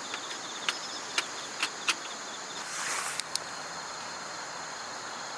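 Night insects trilling steadily in high pulsing bands, with a few sharp clicks in the first two seconds and a brief hiss about three seconds in, followed by two more clicks.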